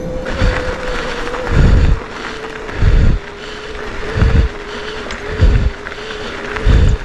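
Mountain bike being ridden: a steady tyre hum with low rumbles about once a second, which sound like wind buffeting the microphone.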